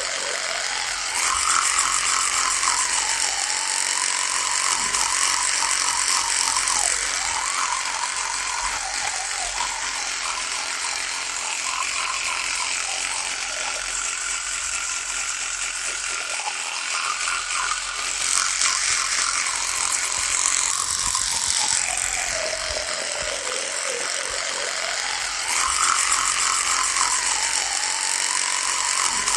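Electric toothbrush buzzing continuously, its pitch slowly sagging and rising again. It grows louder and brighter about a second in, again around eighteen seconds, and again near the end.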